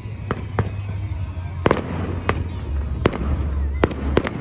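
Fireworks bursting overhead: a string of about seven sharp bangs at uneven intervals, over a steady low rumble.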